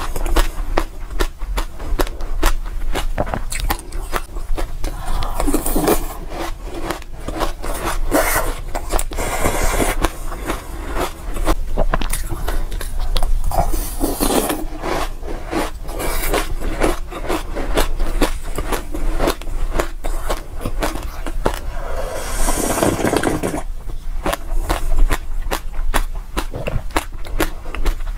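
Close-up crunching and chewing of a mouthful of small hard dry seeds, a dense run of crisp cracks, with a spoon now and then scooping through the loose seeds in a glass bowl in short rattling rushes.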